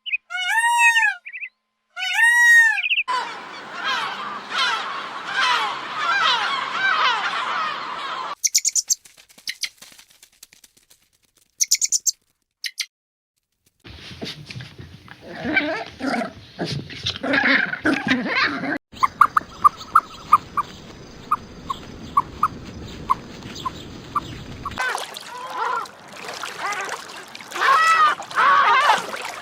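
A run of different animal calls, one clip after another: a few bleats at the start, then long stretches of birds chirping and calling, with a short break in the middle.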